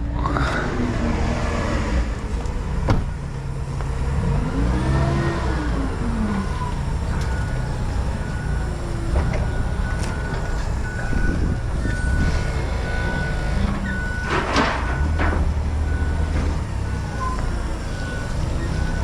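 Heavy vehicle engines rumbling steadily, with a backup alarm beeping about once a second from about seven seconds in and a short burst of air hiss a little after halfway.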